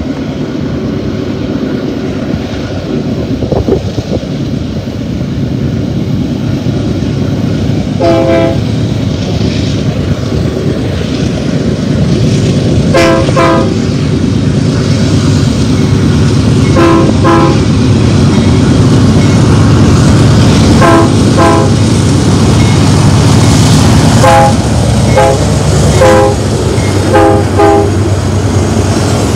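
BNSF diesel locomotives leading a stack train, their low rumble growing louder as they approach and pull alongside. The locomotive air horn sounds over it again and again: one blast about eight seconds in, then a series of short blasts, mostly in pairs.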